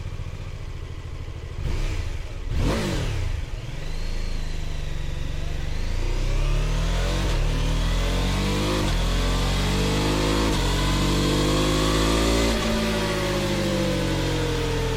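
BMW F 450 GS's 420 cc parallel-twin engine, whose 135-degree offset crank gives an uneven firing beat. The bike sweeps past once about two and a half seconds in. It then accelerates through several gears, the pitch climbing and dropping back at each shift, and eases off in the last couple of seconds.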